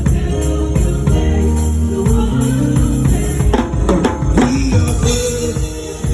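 Live gospel worship music: a band with drums and tambourine plays under singing, and a pitch slides up and down in a run a little past the middle.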